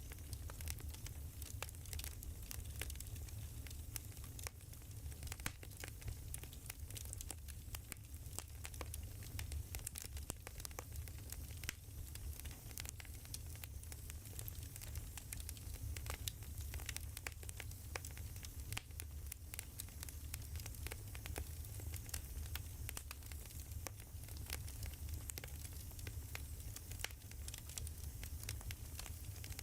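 Burning firewood crackling, with frequent sharp pops and snaps over a steady low rumble.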